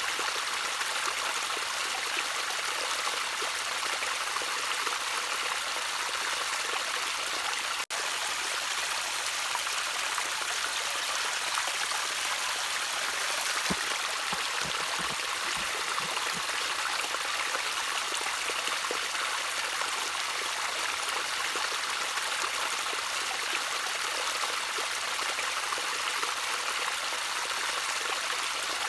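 Gentle trickling water, a small stream running steadily with an even rushing hiss and a few low gurgles near the middle. A split-second break in the sound about eight seconds in.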